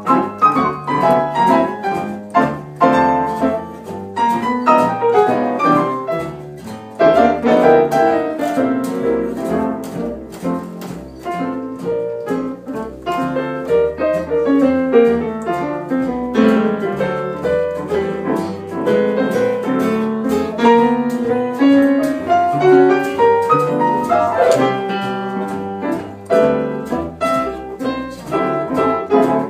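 Piano playing continuously, many quick notes with runs sweeping up and down the keyboard.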